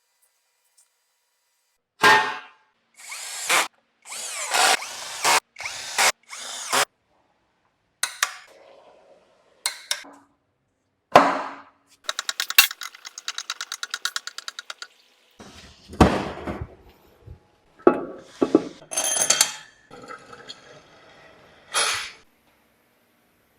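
Engine-assembly tool sounds: a string of short power-tool bursts separated by silences. About halfway through comes a stretch of rapid, even clicking, about seven clicks a second.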